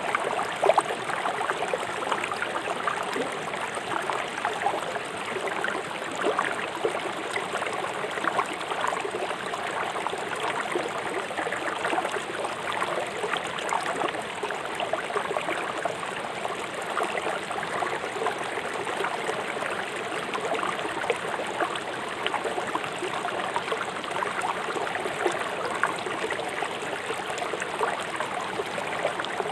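Fast-flowing river water rushing over stones: a steady wash of noise with constant small splashes and gurgles.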